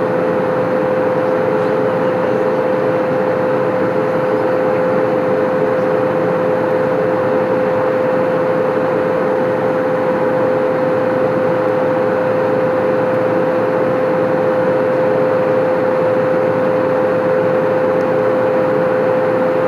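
Airbus A320 cabin noise in flight during descent: a steady rush of airflow and engine noise with a constant hum held at one pitch, unchanging throughout.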